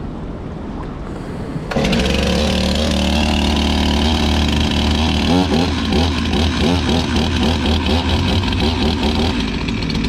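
An engine running steadily, coming in suddenly about two seconds in, with a low hum and a regular wavering tone above it.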